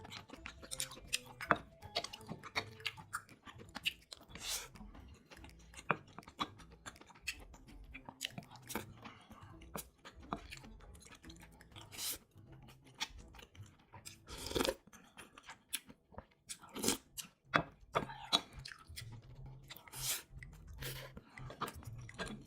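A person chewing food, with many irregular short crunching clicks and a few louder bites in the second half.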